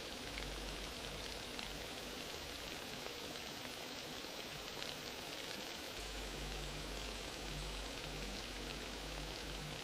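Wood fire crackling steadily: a dense patter of small pops over a soft hiss. A low rumble joins about six seconds in.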